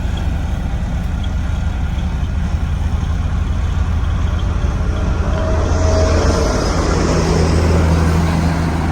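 Diesel engine of a Sakai road roller running steadily, with a low hum, growing a little louder past the middle with a hiss over it for a couple of seconds.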